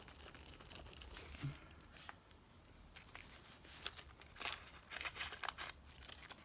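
Paper rustling and crinkling as paper cutouts are handled, with a cluster of sharper crinkles and clicks in the second half.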